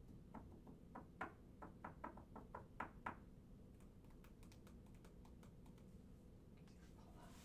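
A quick run of about a dozen light clicks over roughly three seconds, the last few the loudest, against near-silent room tone.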